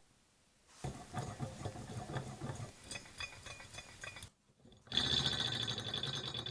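Small electric motor running a scale model engine kit's moving parts, a mechanical whirring clatter in two runs, the second louder and steadier with a high whine.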